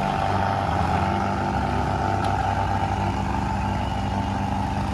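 Diesel tractor engines running steadily at high revs during a tractor tug-of-war (tochan) pull.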